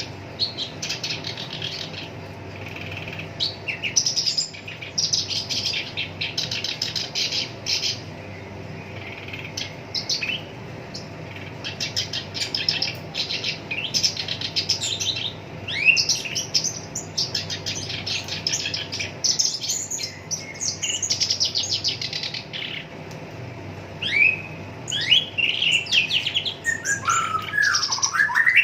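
Black-browed reed warbler singing: harsh, rapid rattling phrases of quickly repeated notes, each lasting a second or two with short pauses between, and a few falling notes near the end.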